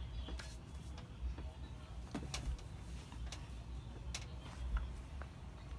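Close-miked eating of noodles: scattered short clicks and smacks from mouth and utensils over a low, steady background rumble.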